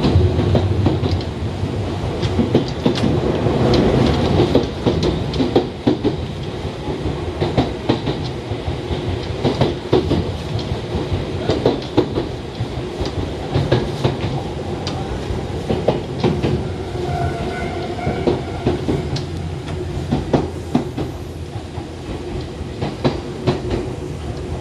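Toyohashi Railway 1800 series electric train running, heard at the gangway between two cars. A steady rumble carries many irregular clacks and knocks from the wheels over rail joints and from the checker-plate gangway floor plates shifting against each other.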